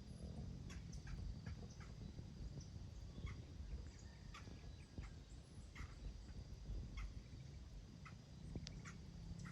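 Faint outdoor ambience: scattered short bird chirps over a steady high insect-like hum and a low wind rumble.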